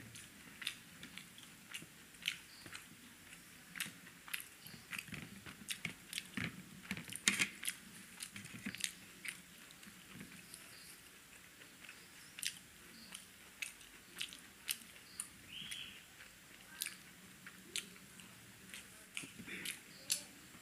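A person eating paratha and chicken curry by hand: chewing with an irregular run of wet mouth clicks and smacks, the loudest about seven seconds in.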